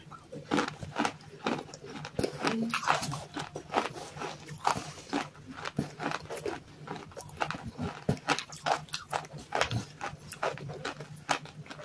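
Close-miked chewing of clay and white clay paste: irregular wet crunches, clicks and smacks of the mouth, several a second.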